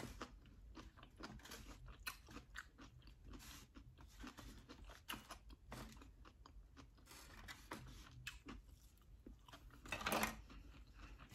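A person chewing and crunching food, faint, with many small clicks and scrapes of a plastic fork in a foam takeout box, and a somewhat louder bite or scrape about ten seconds in.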